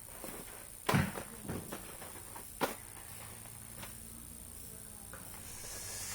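A few light knocks and handling noises: one about a second in, a softer one half a second later, and a sharp one near the middle, over a faint steady hum.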